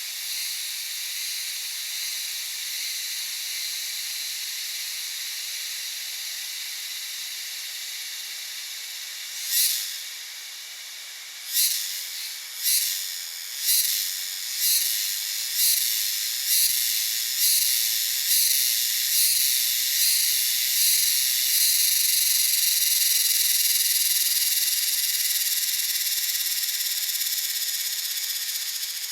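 Tropical forest insect chorus, most likely cicadas, making a steady high hiss. Partway through, one cicada starts a pulsed call whose strokes come faster and faster until they merge into a louder continuous buzz.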